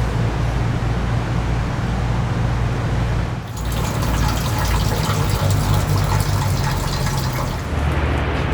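Rushing, splashing water over a steady low hum. The splashing grows brighter and fuller about three and a half seconds in and falls back to the hum near the end.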